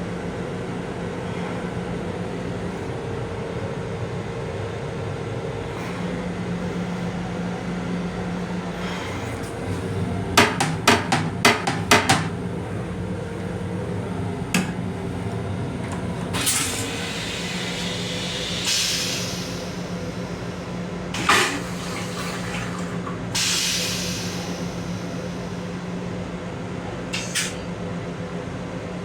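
Steady hum of a Long Island Rail Road M7 railcar running, heard inside its restroom. About a third of the way in comes a quick run of six sharp clicks, and later several short hissing bursts of about a second each.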